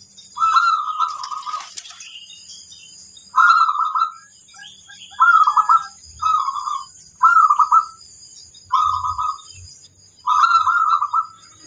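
Zebra dove (perkutut) cooing its song: seven short, rolling trilled phrases with a second or so between them.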